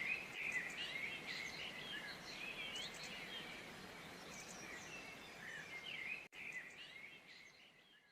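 Several small birds chirping and whistling over a steady background hiss. The sound drops out for an instant about six seconds in, then fades away near the end.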